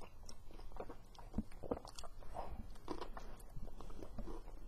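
A person chewing a mouthful of lettuce-and-tomato veggie sandwich on a bun, with soft, irregular mouth clicks.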